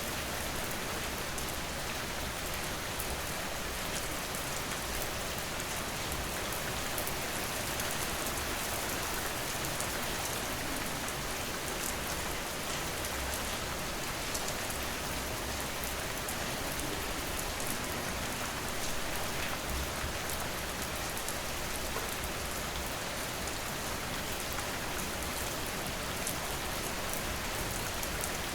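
Steady rain falling, a continuous even hiss with fine scattered drop ticks and no thunder.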